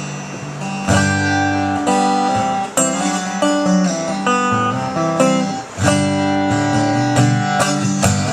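Live band playing an instrumental passage led by guitar, with strummed chords changing every second or two. Recorded through a flip phone's microphone.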